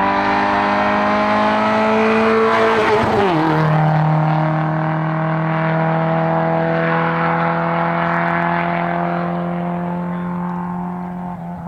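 Citroën Saxo VTS race car engine under full throttle, climbing in revs and then dropping sharply in a gear change about three seconds in. After the shift it holds high, fairly steady revs and fades slightly near the end.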